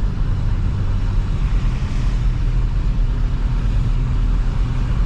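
2005 Toyota Highlander's 3.3-litre V6 running steadily while driving, with a constant low rumble and tyre hiss from a snowy road; the hiss swells briefly about two seconds in.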